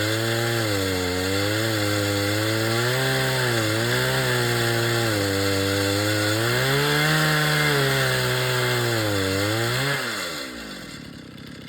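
Chainsaw mounted in an Alaska chainsaw mill ripping lengthwise through a log, running at high revs with its pitch dipping and recovering as the chain bogs under load. About ten seconds in it is throttled back to idle and goes much quieter.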